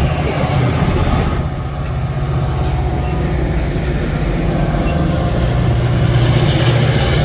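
A train passing: a steady, loud low rumble of rolling rail cars.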